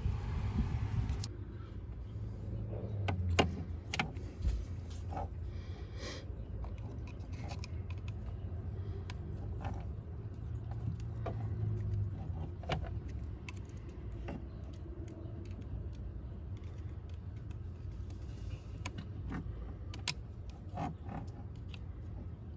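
Scattered small clicks, knocks and light metallic rattles as a blower motor resistor module is worked by hand to free its stuck release tab, over a low steady rumble.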